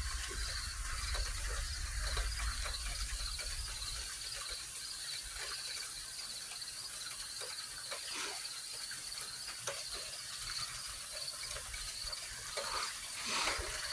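Insects chirping steadily, a continuous pulsing high trill, with faint scattered ticks underneath.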